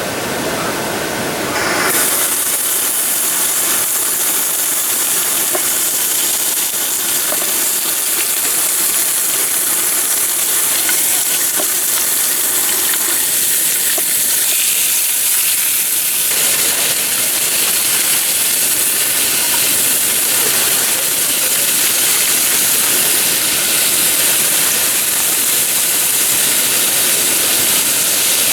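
Steady, loud hiss from lunch being cooked on a camp stove, starting abruptly about two seconds in.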